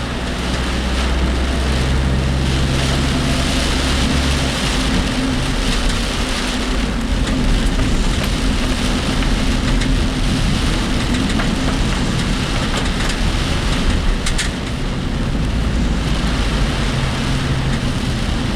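Road noise inside a moving work vehicle's cabin in typhoon rain: a low engine hum under a steady hiss of rain and tyres on the wet road. The engine note drops and changes about four seconds in, and there are a few brief clicks near the end.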